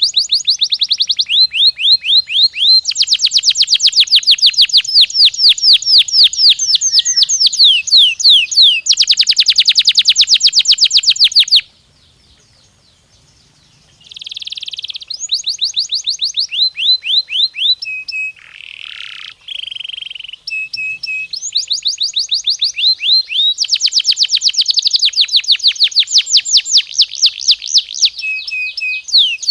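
Domestic canary singing: long, loud rolls of rapidly repeated high notes, one roll after another, with a break of about two seconds about twelve seconds in.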